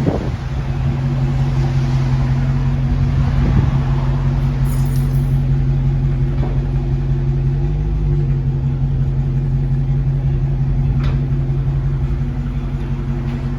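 A car engine running at a steady speed: a constant low drone with a rumble beneath it, with a few faint ticks, cutting off just at the end.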